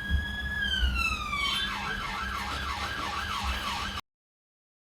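Emergency vehicle siren sounding: a slow rising and falling wail that switches about a second and a half in to a fast warbling yelp, then cuts off abruptly near the end.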